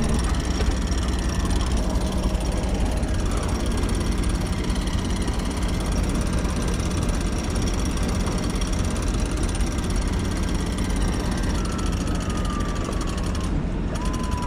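Sailing yacht's engine running steadily under way, a continuous low mechanical hum.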